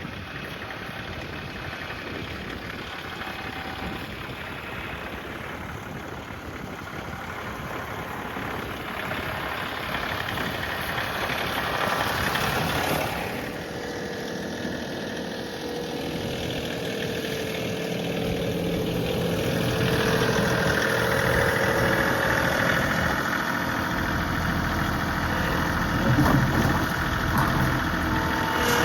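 John Deere 3038E compact tractor's three-cylinder diesel engine running, gradually getting louder, with a steadier engine note in the second half.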